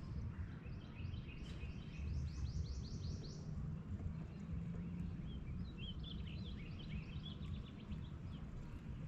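Songbirds singing: a quick trill of high chirps about a second and a half in, then a second, lower chirping phrase near the middle, over a steady low rumble of background noise.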